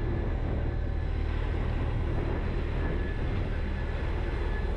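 Pikes Peak cog railway train running steadily, a low rumble with a faint steady whine above it.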